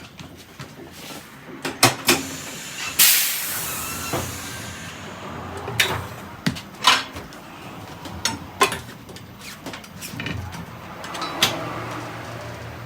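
Tyre-change work: scattered sharp knocks and clanks of tools and wheel parts, with a loud hiss about three seconds in that fades over a second or so.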